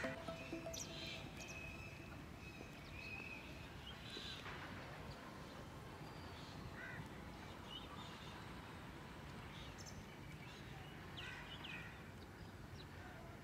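Outdoor farmyard ambience: a steady low background noise with scattered short bird calls and chirps.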